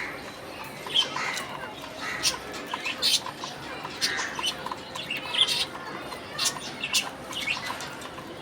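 Budgies (budgerigars) giving short, scattered chirps and squawks, about a dozen sharp calls in all.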